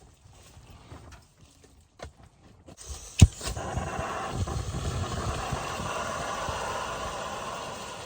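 A few small handling clicks, then a portable gas burner is lit with a sharp ignition click about three seconds in. It catches at once and hisses steadily.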